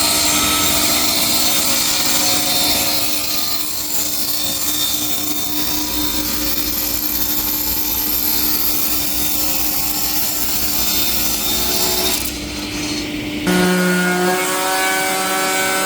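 Sawmill saw cutting through wood: a steady rasping noise over a low hum. Near the end it gives way to a steady pitched whine.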